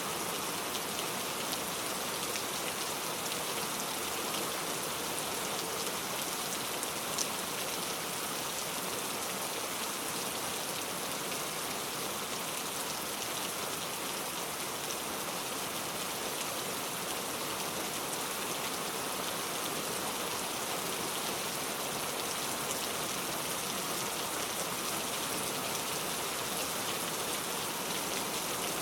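Heavy rain falling steadily, a dense even hiss of drops with a brief louder drip about seven seconds in.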